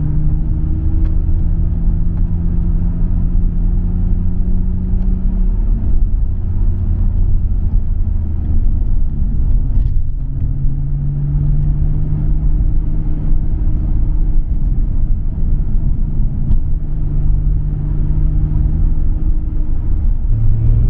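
Nissan Skyline R34 GT-R's RB26 twin-turbo straight-six with a MINES exhaust, driving at steady part throttle. The engine note climbs slowly, then drops back a few times at throttle lifts or gear changes, with a low rumble underneath.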